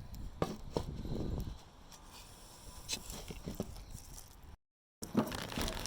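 Light, scattered clicks and scrapes of small things being handled. The sound cuts out completely for a moment near the end.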